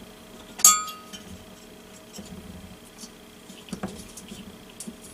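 Metal tool clinking against a diesel heater's metal parts while a glow plug is unscrewed with a 12mm socket: one sharp clink with a short ring about half a second in, then light ticks and taps, a slightly stronger knock near the end.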